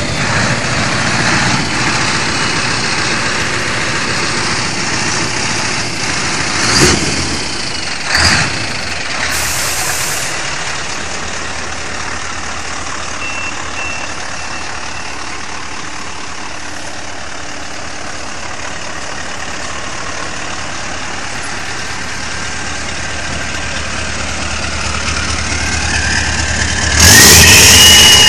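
Scania R620 truck's V8 diesel engine running steadily, blipped briefly twice about 7 and 8 seconds in, then revved much louder near the end.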